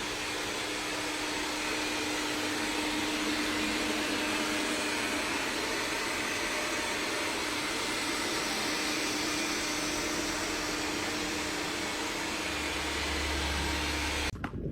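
A small motor running steadily, a continuous whirring noise with a steady hum under it, cutting off suddenly near the end.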